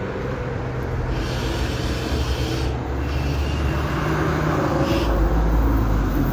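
Road traffic: a motor vehicle's engine running nearby with a steady low hum, growing louder, with a heavier rumble near the end.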